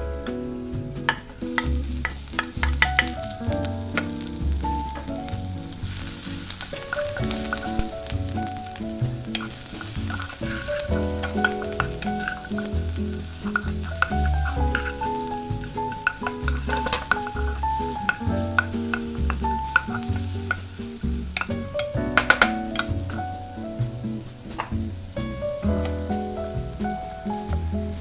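Chopped garlic, then sliced shallots and green chillies, sizzling in oil in a frying pan and being stirred with a wooden spatula, with scattered clicks and scrapes. The sizzle gets stronger a few seconds in. Background music with a steady bass beat plays throughout.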